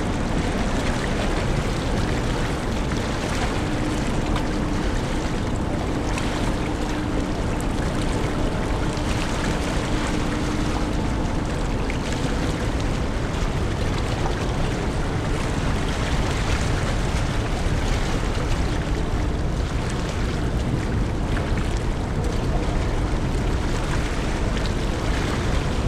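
Steady rush of wind and water with a deep rumble around a large car ferry under way. A faint steady hum runs under it for several seconds in the first half.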